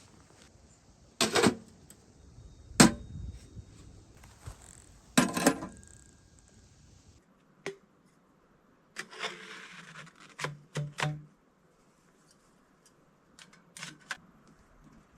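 Irregular sharp knocks and clatters, a few at a time, with the loudest single strike about three seconds in.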